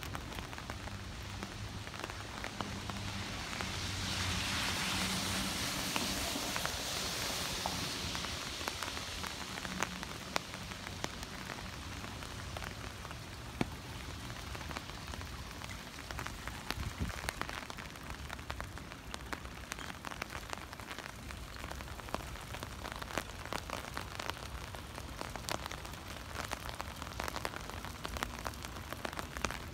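Heavy rain falling on pavement and street surfaces: a steady hiss scattered with sharp drip clicks. About four seconds in it swells louder for a few seconds, with a low hum underneath.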